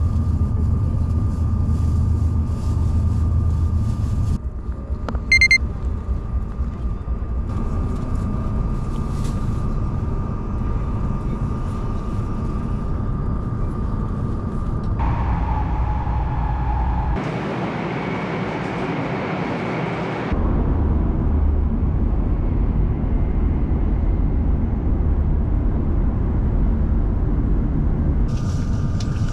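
Steady rumble and rushing noise of a Hokuriku Shinkansen bullet train running, heard from inside the carriage; the noise changes abruptly several times. A brief, loud high-pitched tone sounds about five seconds in.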